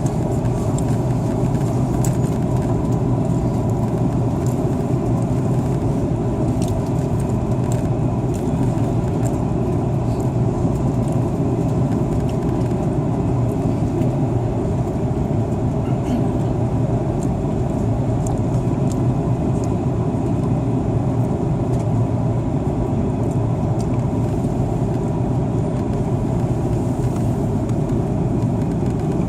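Steady engine and airflow noise inside the cabin of an Airbus A330-300 in flight, even and unchanging, with a faint steady hum on top.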